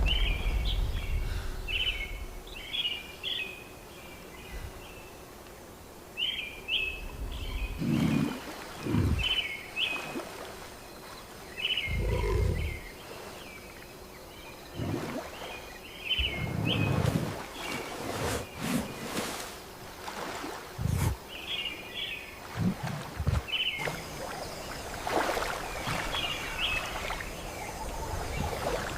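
Rainforest ambience: a bird repeating short high chirping phrases every second or two, with deep low rumbles rising and fading every few seconds.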